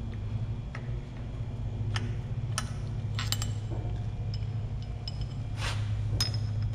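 Metal tools and engine parts clinking and tapping in about half a dozen short, separate knocks, with one slightly longer scrape near the end, over a steady low hum.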